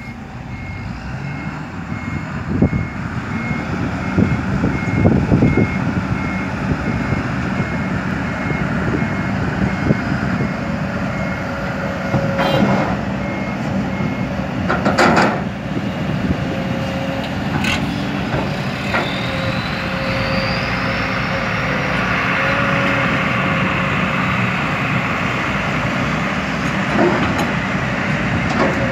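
Hydraulic excavator and dump truck at work: heavy diesel engines running, with a reversing alarm beeping at an even pace that stops about halfway through. Several sharp knocks and clunks stand out over the engine noise.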